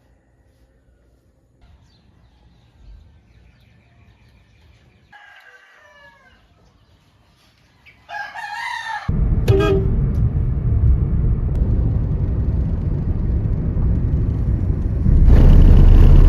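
A rooster crows, a fainter call about halfway in and a loud one just after, and then a loud, steady low noise takes over and grows louder near the end.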